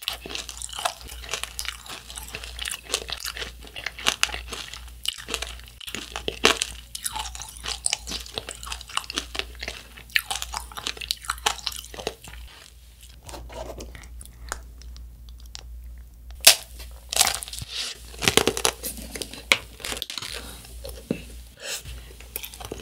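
Chewing and crunching of macaron tanghulu: the thin shell of hardened sugar syrup on the macaron crackling between the teeth, with softer chewing of the macaron. It quiets for a few seconds past the middle, then comes a run of louder crunches.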